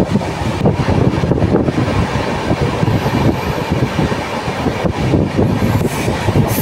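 Rumble and clatter of a moving passenger train's coach wheels on the rails, heard from aboard at an open window.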